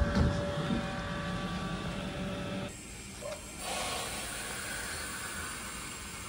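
Standing Northern electric train humming at the platform, a steady machine drone with several held tones. About two and a half seconds in the hum cuts off abruptly, leaving quieter open-air sound with a steady hiss.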